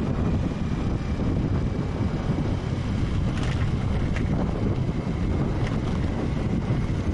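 Steady rumbling, rushing noise of wind buffeting the microphone, heaviest in the low range, with a few faint ticks.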